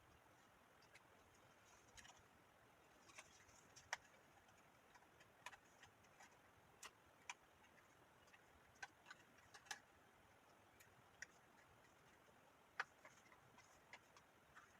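Faint, irregular light clicks and taps of cardstock being handled, one or two every second over near-silent room tone.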